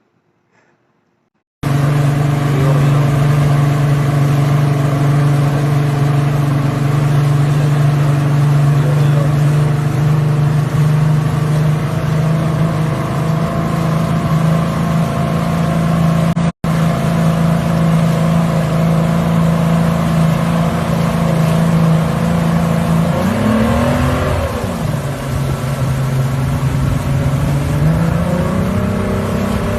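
A motorboat engine running steadily at speed under way, its pitch wavering briefly about three-quarters of the way through and then rising as it picks up speed near the end.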